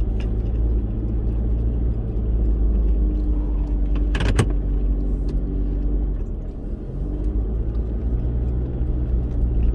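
A 4x4 vehicle driving a rough bush track: a steady engine drone and road rumble, with one sharp knock a little under halfway through, as from a jolt over a bump.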